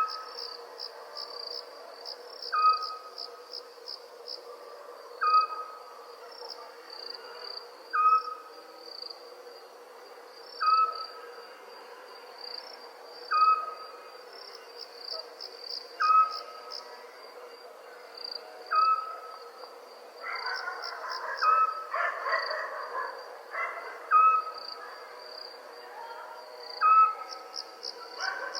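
An owl gives a single short hoot, repeated about every two and a half to three seconds, over the steady high-pitched chirping of crickets. A rougher, noisier sound rises for a few seconds about two-thirds of the way through.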